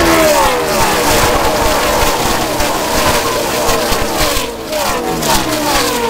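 A field of NASCAR race trucks passing at speed one after another, each V8 engine dropping in pitch as it goes by.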